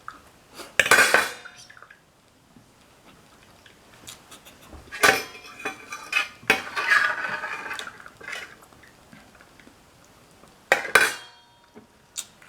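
Metal cutlery clattering and clinking against dishes in several short bursts: one about a second in, a longer run from about five to eight seconds, and another near the end.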